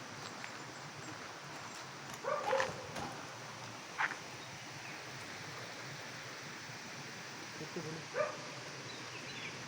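A dog barking a few short times, about two and a half, four and eight seconds in, over a steady background hiss.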